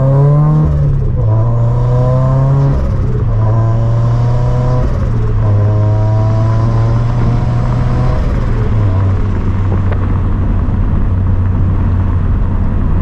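Turbocharged 2013 Scion FR-S flat-four engine, with catless front pipe and quad-tip catback exhaust, pulling up through the gears. The pitch rises and drops back at each of several upshifts, then holds steady at cruise for the last few seconds.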